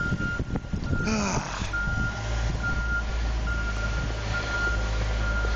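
A truck's reverse alarm beeping about once a second over a low engine rumble. The alarm tone holds steady for about a second at the start. There is a brief squeal about a second in.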